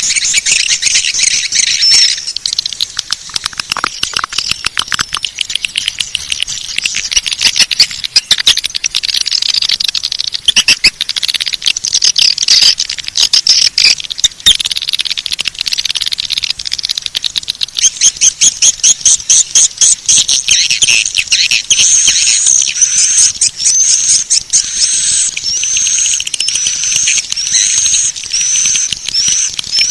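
Swiftlet calls: dense high twittering chirps mixed with rapid runs of clicks, ending in a string of short repeated chirps a little under two a second. It is a swiftlet lure call, the kind played to draw swiftlets into a nesting house.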